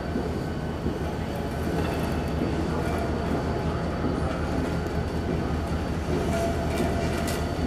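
Steady low engine rumble of a slowly moving train, with a few faint metallic clicks near the end.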